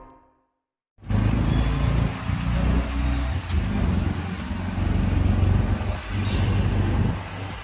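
Busy city street traffic: a loud, steady rumble of vehicle engines and road noise that cuts in about a second in, after a music fade-out and a moment of silence.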